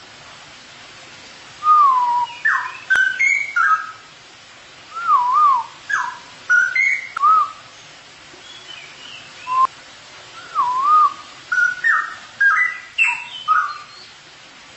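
Straw-headed bulbul singing: bubbly, liquid whistled phrases that loop up and down in pitch, in bursts of a few seconds with short pauses between them.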